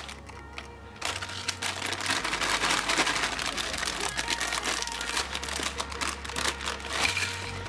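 Meat grinder crushing tortilla chips: dense, crisp crackling and crunching that starts about a second in and runs on for several seconds.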